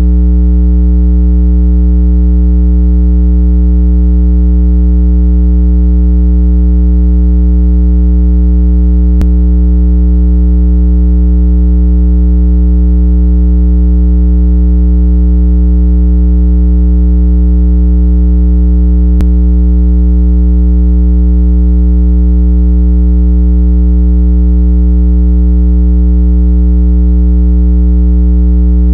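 Continuous low-pitched 165 Hz water-eject tone, played to make earbud and phone speakers vibrate and shake out trapped water. It holds completely steady, with a faint click about every ten seconds.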